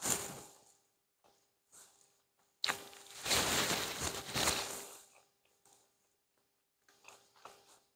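Close-miked eating sounds: chewing a bite of pizza, with small mouth clicks. About three seconds in comes a loud rustle of a paper napkin wiped across the mouth, lasting about two seconds.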